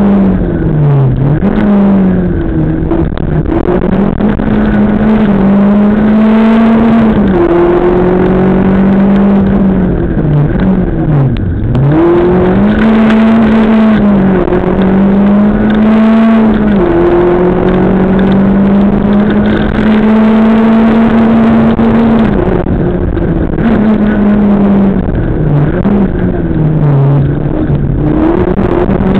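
Rally car engine heard loud from inside the cabin, held at high revs under hard acceleration, its pitch dropping sharply on lifts and downshifts several times and climbing back each time.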